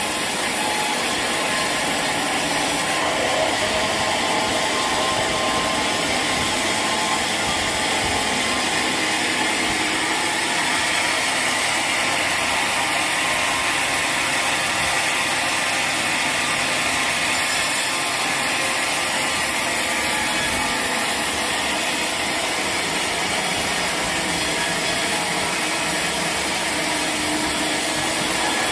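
Sawmill saw cutting through a mahogany log, a steady mechanical noise that runs without a break.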